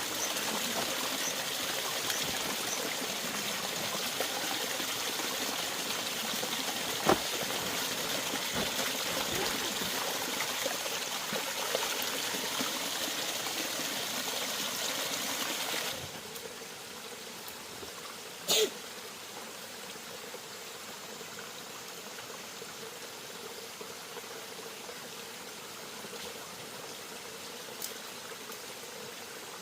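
Steady running water, trickling and flowing, which turns abruptly quieter about halfway through. There is a sharp knock about seven seconds in and a brief louder sound a little after the change.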